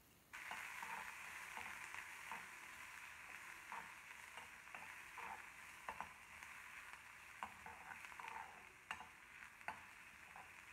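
Sliced onions, dried red chillies and mustard seeds sizzling in hot oil in a hammered metal kadai while a steel spoon stirs them. The sizzle starts suddenly just after the start, and the spoon clicks and scrapes sharply against the pan a few times.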